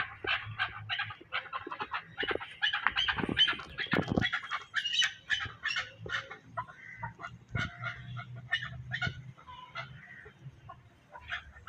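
Several fowl-like birds calling, with many short calls repeated quickly and overlapping, busiest in the first half and sparser towards the end.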